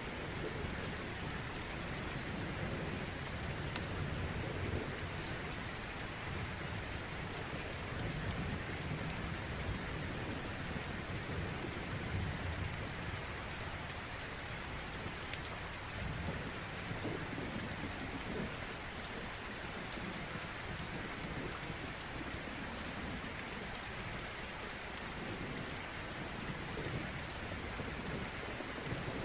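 Steady heavy rain, an even hiss of drops falling on a surface, with a low rumble that swells and fades now and then.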